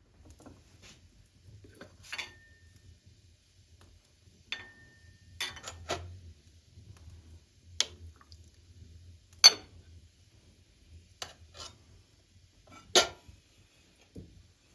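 Cutlery and dishes clinking at a meal: scattered knocks and clinks, a couple of them briefly ringing, with the loudest two in the second half.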